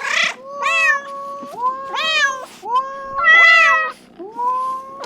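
Domestic cat meowing repeatedly, about four drawn-out meows, each rising in pitch and then held.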